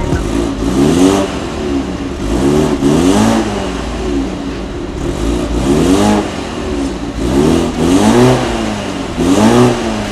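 BMW 330e's 2.0-litre turbocharged four-cylinder engine revved again and again in short blips through an iPE titanium performance exhaust, the pitch rising and falling with each blip.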